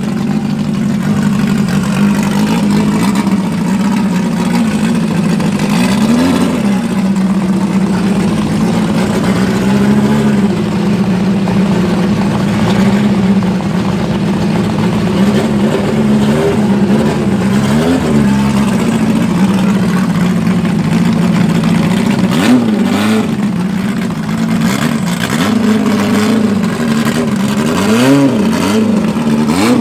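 Mk1 Ford Escort race car's engine idling steadily, blipped a handful of times with short revs that rise and drop straight back to idle.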